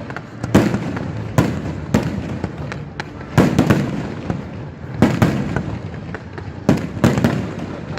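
Fireworks display: about ten loud bangs in irregular succession, some in quick pairs, with a low rumble between them.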